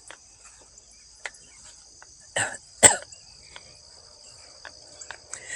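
Steady high-pitched chorus of crickets or similar insects, with faint clicks and two short, loud, sharp sounds close together about two and a half seconds in.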